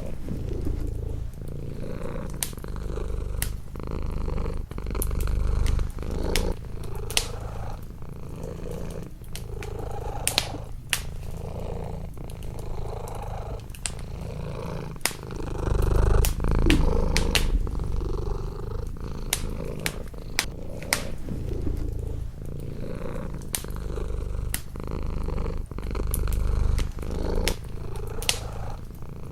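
Domestic cat purring close up, the purr swelling and easing with each breath every second or two, over a wood fire in a fireplace crackling with irregular sharp pops.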